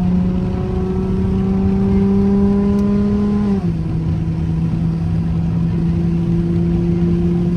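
Straight-piped car exhaust droning as the engine pulls, its pitch slowly climbing, then dropping sharply about three and a half seconds in as the transmission shifts up a gear, and holding steady after.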